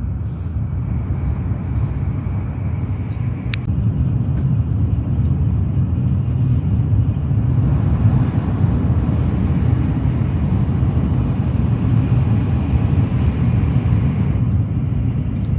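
Shinkansen bullet train running, heard from inside the passenger car: a steady low rumble and rush that grows louder about four seconds in.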